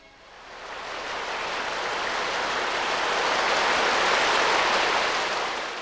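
Audience applauding, swelling over the first couple of seconds and holding steady, then starting to fade near the end.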